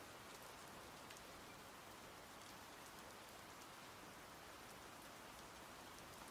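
Very faint, steady rain sound: a soft hiss with scattered light drop ticks, close to silence.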